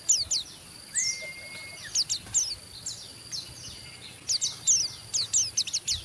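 White-eyes (pleci) twittering: clusters of rapid, high, quick downward-sweeping chips in bursts about once a second, the excited 'ngeriwik' chatter. A short held whistle comes about a second in.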